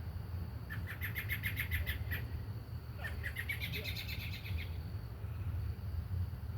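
Robin nestlings begging: two bouts of rapid, high, evenly repeated chirps, each about a second and a half long, a second apart, over a steady low hum.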